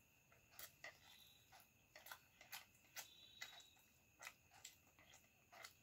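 Very faint, irregular soft clicks of someone eating pasta by hand, about two a second: mouth sounds of chewing and fingers picking at the food.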